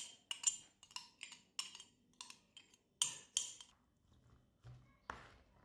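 Metal cutlery clinking against a dish in quick, uneven taps, about four a second, then two louder clinks about three seconds in, as boiled wild asparagus is tossed with olive oil, lemon and salt.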